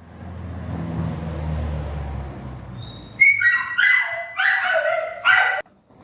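A low rumble, then a dog yelping four or five times in short, high calls that fall in pitch, cut off suddenly near the end.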